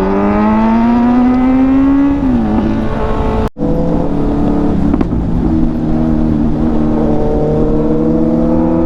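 Motorcycle engine under way, its note rising as it accelerates for about two seconds, then dropping at a gear change and pulling on steadily with a slowly rising note. The sound cuts out briefly about three and a half seconds in.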